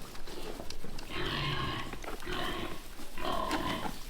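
Pigs squealing and grunting: three short calls about a second apart, starting about a second in.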